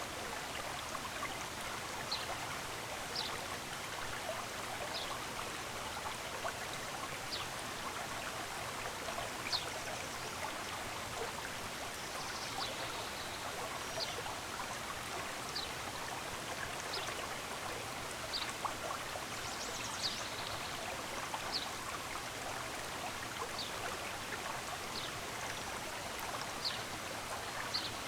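Stream of running water flowing steadily, with a bird giving short, high chirps every second or two.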